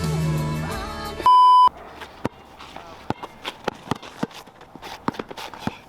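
Background music with a voice, cut off about a second in by a loud, short single-pitch censor bleep. After it come scattered sharp taps and thuds.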